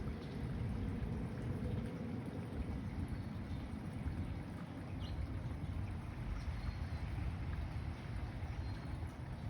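Wind buffeting the microphone: a steady, flickering low rumble, with faint outdoor background noise.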